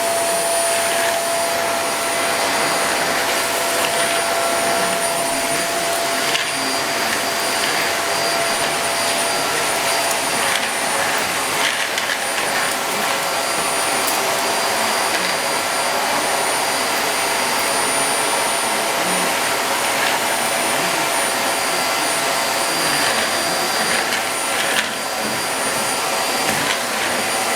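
Vacuum cleaner running steadily: a continuous rush of air with a steady whine from its motor.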